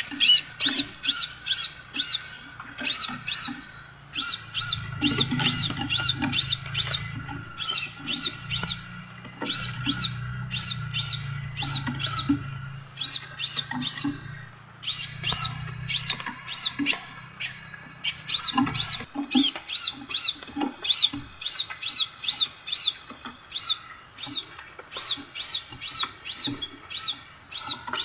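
Scarlet minivet (sepah raja) calling: sharp, high notes repeated in quick runs of several notes each, with short pauses between the runs.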